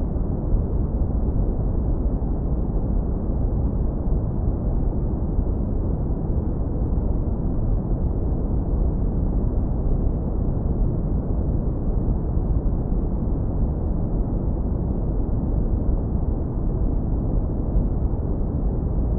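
Synthetic brown noise, heavily lowpass filtered to a deep, warm, continuous rumble with almost nothing in the highs. It holds a steady level with no changes.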